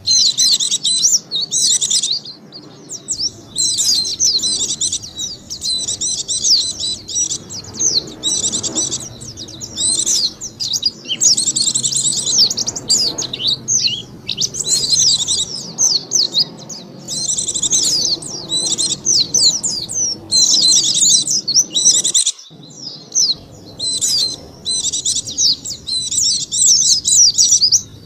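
White-eye (pleci) song from a lure recording: rapid, high twittering in phrases of a second or two, broken by short pauses.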